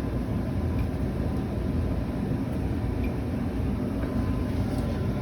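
Residential furnace running: a steady low rumble with no breaks.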